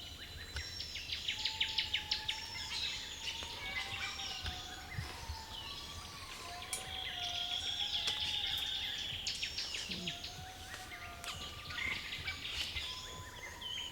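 Several wild birds calling at once: short whistled notes that bend up and down, a quick run of sharp chips about a second in, and a long buzzy trill in the middle.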